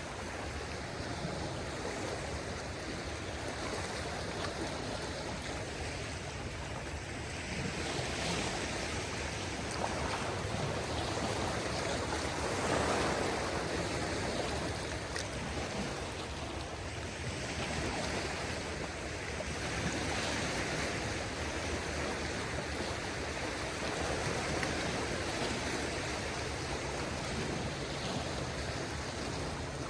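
Small waves of a calm sea washing gently onto the shore, a steady rush of water that swells and eases every few seconds.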